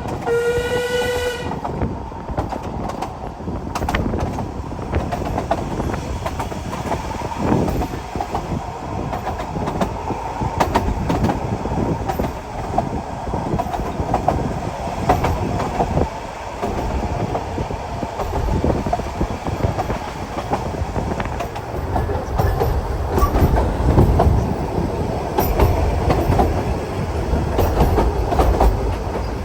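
A narrow-gauge Ffestiniog Railway train sounds its whistle, which cuts off about a second and a half in. Then comes the steady rumble and clickety-clack of the train running along the track.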